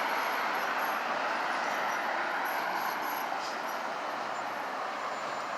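Street traffic noise: a steady hiss of passing vehicles that slowly fades.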